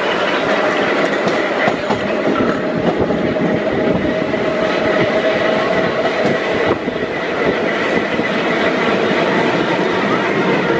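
Running noise heard on board a 1903 BU elevated subway car in motion: a loud, even rumble and clatter of the wheels on the track with a steady high whine.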